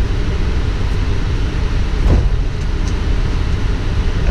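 Steady low rumble inside a Boeing 777 cockpit as the airliner taxis, with a short knock about two seconds in.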